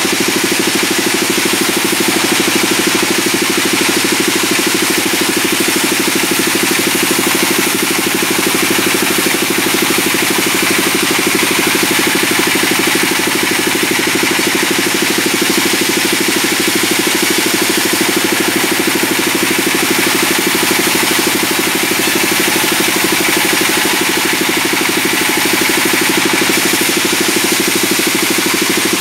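Sawmill band saw running with a loud, steady mechanical drone that does not change.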